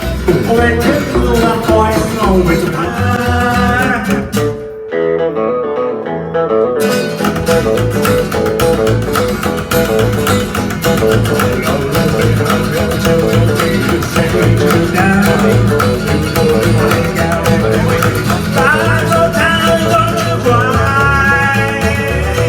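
Live band playing an instrumental passage, a guitar lead over bass and drums. About five seconds in, the drums and cymbals drop out for about two seconds, then the full band comes back in; near the end the lead guitar plays bending, gliding notes.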